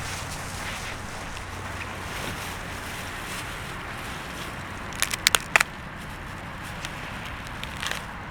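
Bonfire crackling over a steady rushing noise, with a quick cluster of sharp pops about five seconds in.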